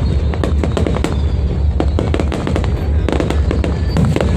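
Fireworks going off in a dense, irregular barrage of sharp pops and bangs over a low rumble.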